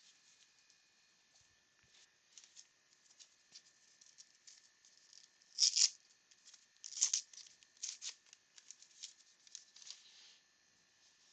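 A pack of 1989 Upper Deck baseball cards being torn open and handled: faint wrapper crinkling and cards sliding against each other in a string of short crackles, a few louder ones about six to eight seconds in.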